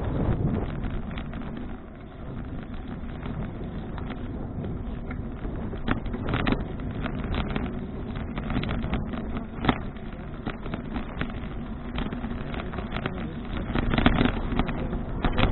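Wind rumbling on an action camera's microphone while riding a bicycle, with scattered knocks and rattles from the bike. A sharper knock comes about ten seconds in, and the rumble grows louder near the end.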